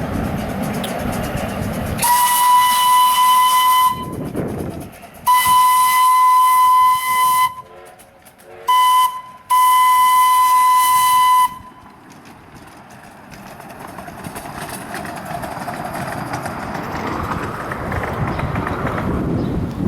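Steam locomotive whistle, Strasburg Rail Road's Engine 89, sounding four blasts on one steady pitch over a steam hiss: long, long, short, long, the grade-crossing signal. Train running noise comes before the blasts and swells again near the end.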